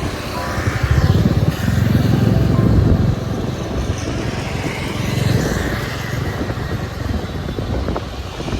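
Motor vehicle running on the road: a steady, loud low rumble of engine and road noise.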